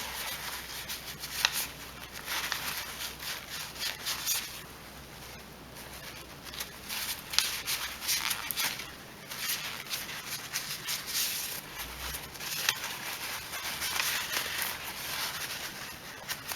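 A rag wiping and scrubbing the carburetor mounting surface on a Briggs & Stratton 190 cc lawnmower engine, cleaning it before a new gasket goes on. It comes in irregular rubbing strokes with a few light clicks.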